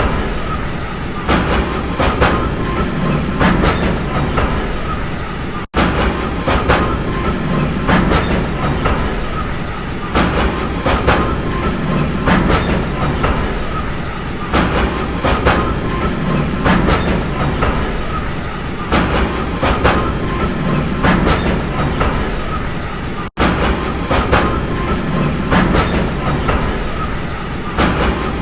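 Train running steadily along the track: a continuous rumble with a regular clickety-clack of the wheels over the rail joints. The sound drops out for an instant twice.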